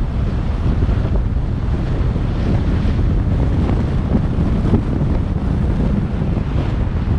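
Wind rushing and buffeting over the microphone of a moving car, a steady low rumble with the car's road noise underneath.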